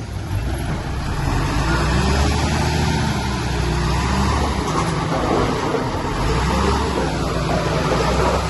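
Diesel engine of heavy earthmoving machinery running steadily under a dense mechanical noise, with the engine note shifting twice, about halfway through and near the end.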